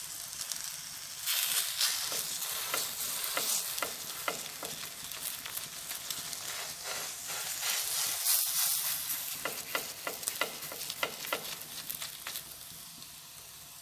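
Oil sizzling and crackling under a suet-and-onion stuffed flatbread (mechahma) frying on a grooved cast-iron griddle over medium heat. The sizzle is a steady hiss full of small pops, and it swells about a second in and again around eight seconds.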